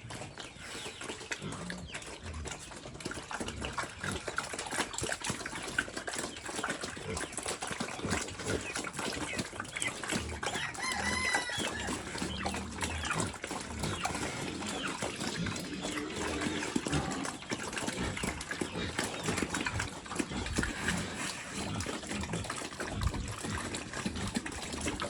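Pigs feeding, a dense clatter of small noises throughout. A rooster crows once, about ten seconds in.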